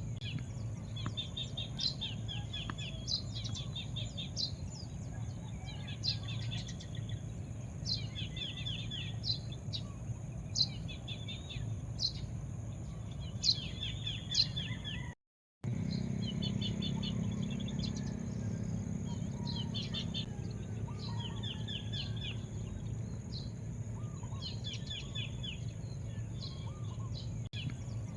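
Small birds chirping: short repeated phrases of a few quick high notes every second or two, over a steady low background rumble and a thin high steady hum. The sound cuts out completely for about half a second around the middle.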